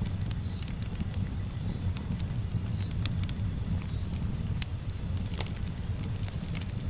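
Campfire burning with a steady low rumble and scattered sharp crackles and pops from the wood.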